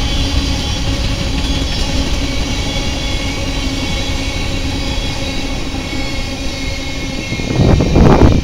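Covered hopper cars of a freight grain train rolling past on the rails: a steady rumble with faint high ringing tones above it. Near the end a louder burst of low noise rises over it.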